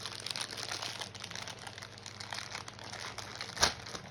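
Packaging crinkling and crackling as a small toy packet is opened by hand, with one louder knock about three and a half seconds in.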